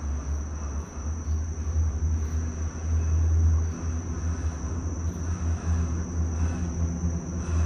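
Low, uneven rumble of a Disney Skyliner gondola cabin in motion along its cable, swelling and easing, loudest about three seconds in, with a thin steady high-pitched tone over it.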